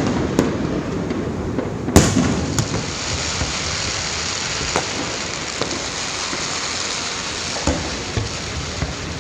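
Fireworks bursting: a few sharp bangs, the loudest about two seconds in, followed by a long, dense crackling that carries on, with a few more bangs near the end.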